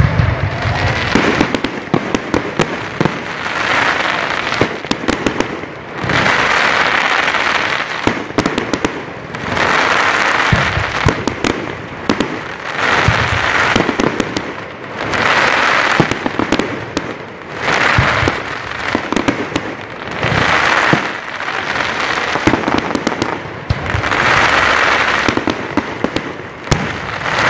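Aerial fireworks display: sharp bangs from bursting shells come thick and fast, with longer swells of crackle about every two to three seconds.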